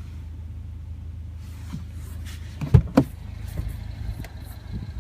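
Rear door of a car being unlatched and opened from inside: two sharp knocks about a quarter second apart a little past halfway, followed by lighter clicks, over a steady low hum.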